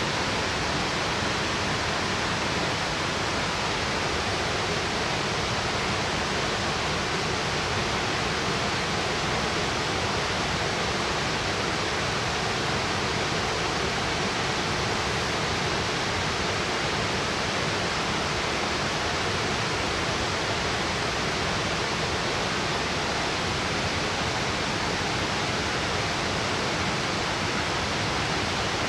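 A 60-metre straight-drop waterfall: a steady, unbroken rush of falling water.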